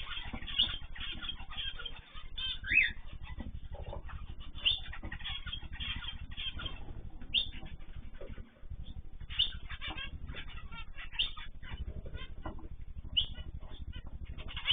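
Mixed cage birds, cockatiels, zebra finches, canaries and goldfinches, chirping and calling in short bursts every second or so, over a steady low hum.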